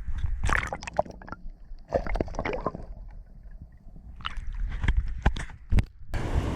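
Irregular knocks and clicks of handling and gear in a small fishing boat, over water sloshing and a low rumble.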